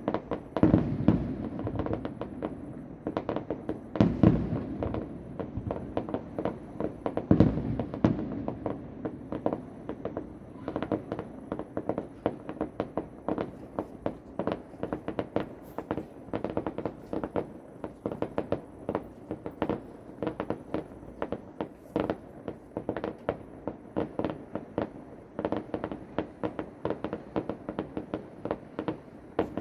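Fireworks display heard from about a kilometre away: a continuous barrage of sharp bangs, several a second, with heavier booms about a second, four seconds and seven seconds in.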